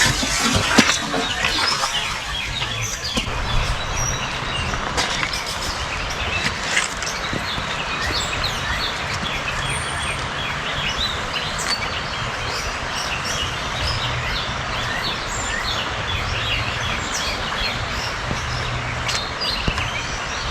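Many small birds chirping and calling, with short chirps scattered throughout. Underneath is a steady background hiss and an on-and-off low hum.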